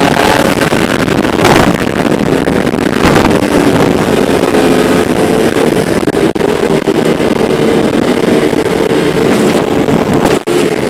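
Motorcycle engines running at steady road speed under heavy wind noise on the microphone, the engine pitch wavering up and down slightly, with a brief dropout near the end.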